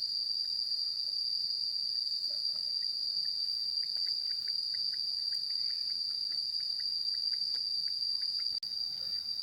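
Insects droning in a steady, high-pitched continuous buzz, with faint short chirps through the middle; the sound drops out for an instant near the end.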